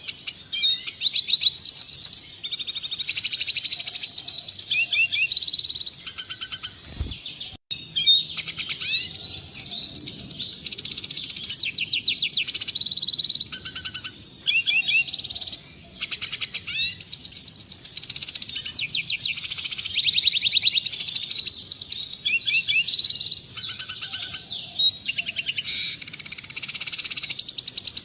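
Red siskin singing a rapid, continuous twittering song of high chirps and trills, with a brief break about seven seconds in.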